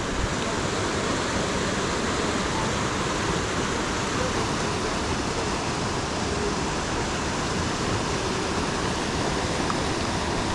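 Waterfall and rapids rushing: a steady, even wash of water noise.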